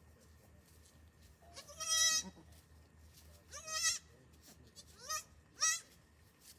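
Goat bleating four times, wavering high-pitched calls; the first, about two seconds in, is the longest and loudest, and the last two rise in pitch at their start.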